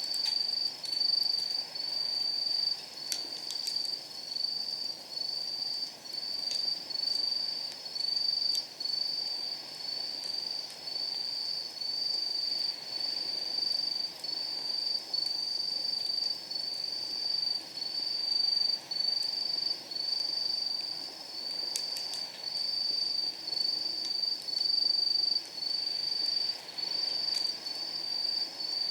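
A night insect, cricket-like, singing steadily in a high, even pulsing song at about two pulses a second. A few sharp crackles of burning firewood pop through it, clustered near the start and again about two-thirds of the way in.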